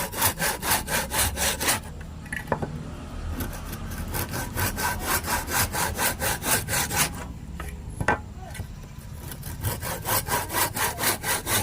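Hand saw cutting through wood in quick back-and-forth strokes, about five a second, in three bouts with short pauses between them. A single sharp click falls about eight seconds in.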